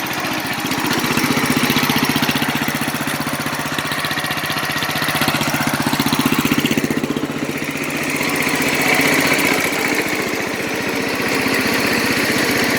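Engine idling steadily just after a cold start, having fired right up after sitting unrun since fall. About three-quarters of the way through, its steady low hum drops away while it keeps running.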